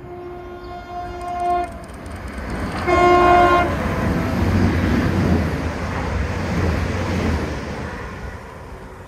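Train horn sounded twice, a long blast and then a shorter one, as a train comes through and passes; the rush of the passing train swells after the second blast and fades away near the end.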